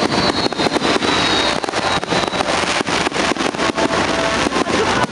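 Fireworks display: a rapid, dense series of bangs and crackles from bursting shells. A high whistle falls in pitch and fades out about two seconds in.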